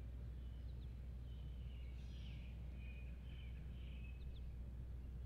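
Faint outdoor ambience: a steady low rumble with a few distant birds chirping and warbling faintly over it.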